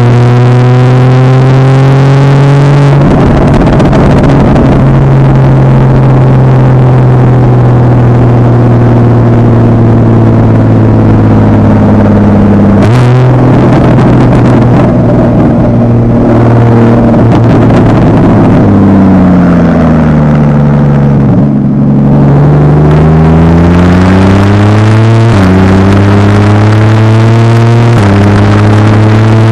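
A Porsche 981 Boxster's 2.7-litre flat-six running through a Fabspeed Maxflo aftermarket exhaust on a light-throttle cruise. The engine note climbs at the start and holds steady for long stretches. About two-thirds through it falls as the car slows, then climbs again.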